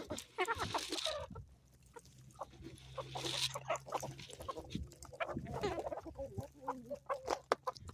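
Chickens clucking, a flock calling in short overlapping clucks.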